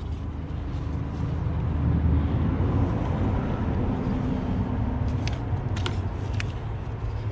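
Low rumble of a motor vehicle, swelling about two seconds in and then easing off, with a few light clicks near the end.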